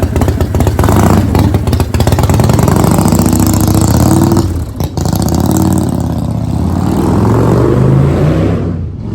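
Motorcycle engine running hard and accelerating, its pitch climbing, dropping briefly about halfway through, then climbing again before easing off near the end.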